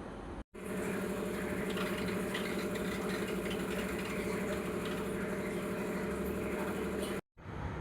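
A steady mechanical hum with an even low drone, cutting off abruptly near the end.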